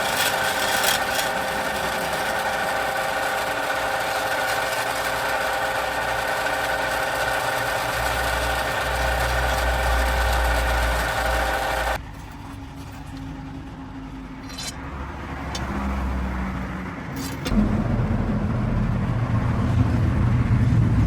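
A motor-driven power tool running steadily with a whine as it works wood. About twelve seconds in it cuts off abruptly to a quieter low rumble, which grows into a louder engine-like running near the end.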